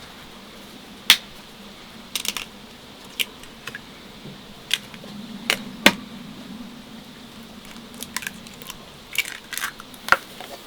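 Kitchenware clinking and tapping: about a dozen sharp, irregular clicks and clinks, like utensils knocking against dishes or jars.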